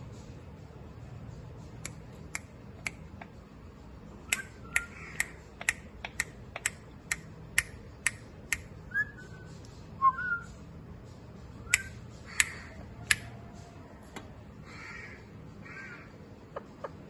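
A parrot's short chirps and harsh squawks, among a run of sharp clicks at about two a second that stops a few seconds before the end.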